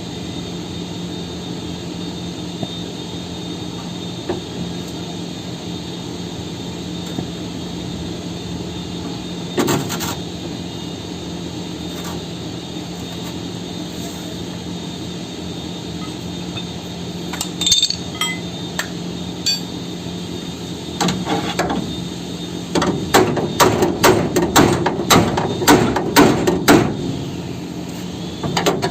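A steady machine hum, broken by a few scattered knocks and clinks. About two-thirds of the way through, rapid hammer blows on chassis metal begin, about three a second.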